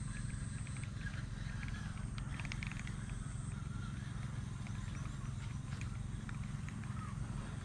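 Faint, scattered bird chirps and small ticks over a steady low rumble.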